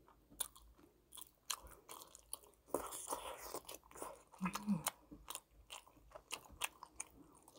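A person chewing fried, batter-coated twigim and tteokbokki rice cakes close to the microphone: a string of sharp, irregular crisp crunches and wet mouth clicks, with a brief low hum about four and a half seconds in.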